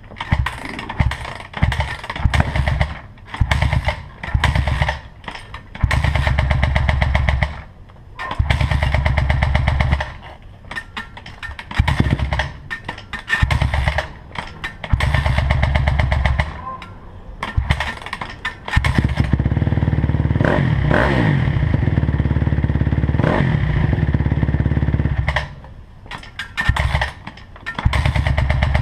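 2009 Honda CRF250R's single-cylinder four-stroke engine being revved in repeated short throttle blips, dropping back to a low idle between them, with one longer rev about two-thirds of the way through whose pitch rises and falls. The running is shown for an odd noise that the owner has not identified.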